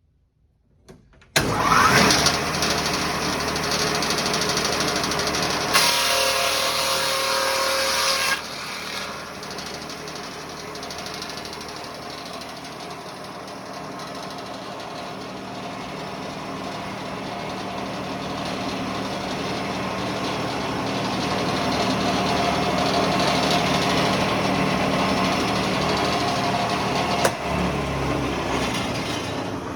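Sawmill edger switched on about a second in: its motor and saw blades start up suddenly and run steadily. The sound changes as a board is pushed through the blades, with a louder stretch early on and a slow swell later.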